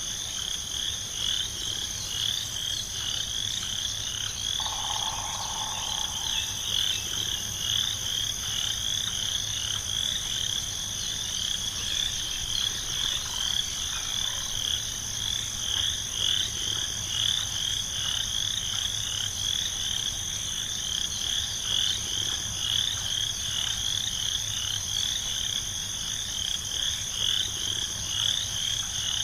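Chorus of frogs calling, many rapid repeated calls overlapping into a continuous pulsing trill, over a steady high-pitched hum. A brief lower call sounds once about five seconds in.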